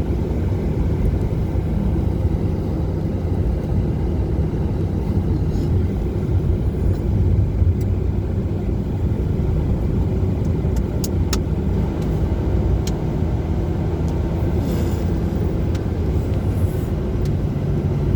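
Car driving steadily: continuous engine and tyre rumble with a low drone, and a few faint ticks around the middle.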